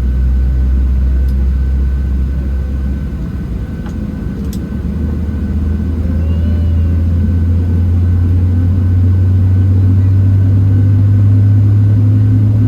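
Boeing 737-700's CFM56-7B jet engines heard from inside the cabin as a loud, steady low drone. About three seconds in the drone shifts up in pitch and keeps slowly rising, as the engines spool up on the ground.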